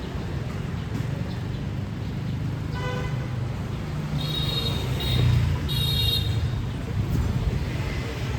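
City street traffic, with engines running steadily underneath. A short horn toot sounds about three seconds in, followed by two higher-pitched horn beeps, one around four to five seconds and another around six seconds.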